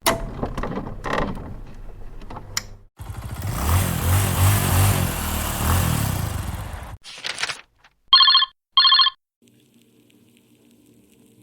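A string of stock sound effects played back to back. First come about three seconds of clattering knocks, then about four seconds of a loud, rough, engine-like rumble, and a brief rustle. Two short electronic telephone rings follow, then a faint low hum.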